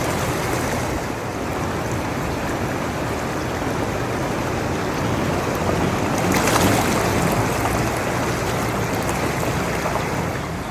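Floodwater running down a wadi runoff channel after heavy rain, a steady rush of water that swells briefly about six seconds in.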